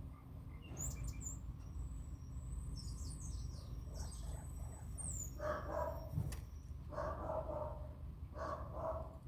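Small birds chirping and trilling in short high notes, then three lower calls about a second apart in the second half, over a steady low rumble.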